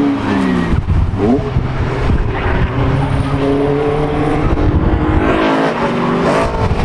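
Track-day cars driving past on a circuit, their engines revving up and dropping back several times as they accelerate and lift off.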